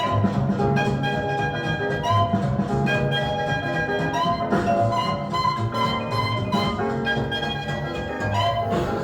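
Instrumental music with ringing pitched notes over a bass line, played from a record through a Rogue Audio Cronus Magnum III tube amplifier into Klipsch Forte III loudspeakers and picked up in the room.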